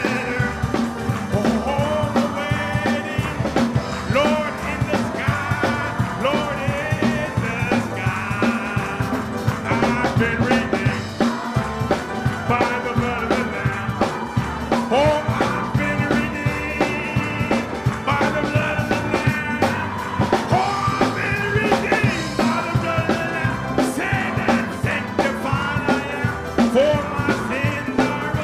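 A live gospel praise band playing an upbeat hymn. A wavering melodic lead line runs over steady drums and bass, with no clear sung words.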